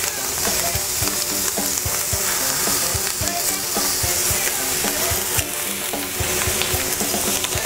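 Portobello mushroom caps and panela cheese frying in a little oil on a hot griddle pan: a steady sizzle with many small crackles throughout.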